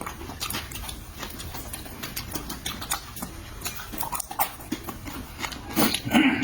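Close-up mouth sounds of eating: chewing with a run of sharp wet clicks and smacks, and a short voiced sound near the end.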